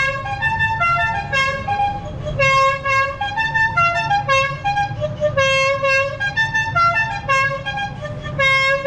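Musical car horn playing a tune of quick stepped notes that rise and fall without a break.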